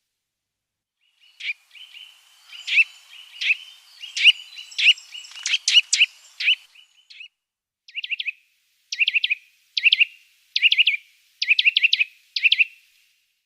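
A songbird calling: a run of sharp chirps over a steady high whistle, then about six short bursts of quick notes, roughly one a second.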